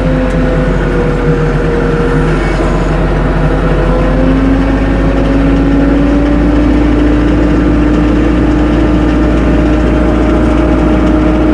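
Tractor engine running steadily under load, its pitch rising a little about four seconds in and then holding at the higher speed.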